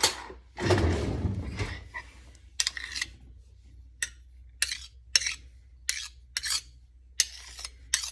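Spoon scraping vanilla Greek yogurt out of a nearly empty tub and knocking it into a dish: a longer, louder scrape about a second in, then a series of short scrapes and clinks.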